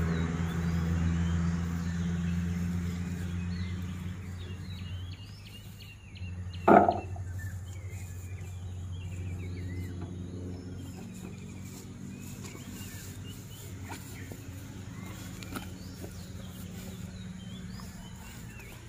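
Birds chirping over a low steady hum, with a single sharp knock about seven seconds in.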